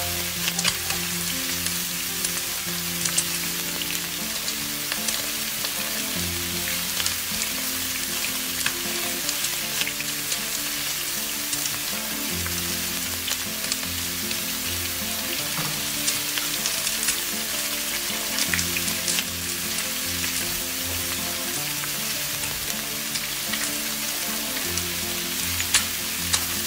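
Pumpkin flower fritters sizzling steadily as they fry in oil in an iron kadai, with scattered sharp crackles and spatula clicks as they are turned. Soft instrumental music underneath.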